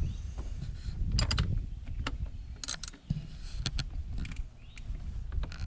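Scattered sharp clicks and light knocks of a truck's accelerator pedal assembly and its parts being handled, over a low rumble.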